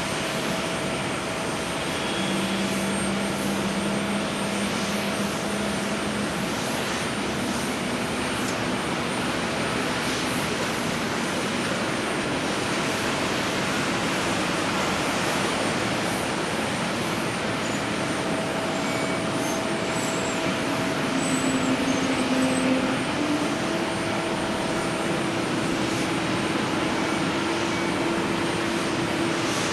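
Jet airliner engines running steadily, a continuous wide noise with faint steady whining tones, swelling a little about two-thirds of the way through.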